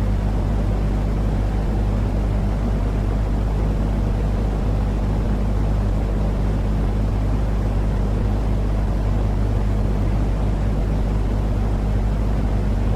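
Steady, low, rumbling sleep noise for a baby, sold as white noise, with a constant low hum under it and no change at all.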